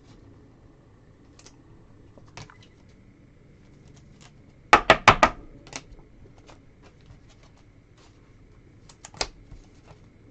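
Trading cards and packs handled on a table: scattered sharp clicks and taps, with a quick cluster of four loud taps about halfway through and two more near the end.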